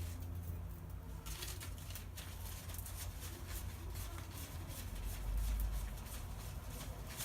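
Small parts being handled on the bench: a run of light, irregular clicks and rustles, starting about a second in, over a steady low hum.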